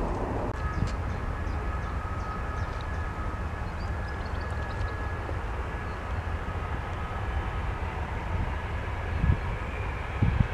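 Jet airliner engines running: a steady low rumble with a thin, steady whine over it. Two short low thumps come near the end.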